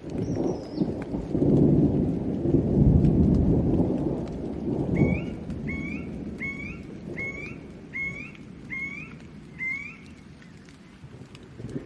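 Thunder rumbling over steady rain, starting at once, loudest a couple of seconds in, then fading. From about five seconds in, a bird repeats a short rising note seven times, evenly spaced.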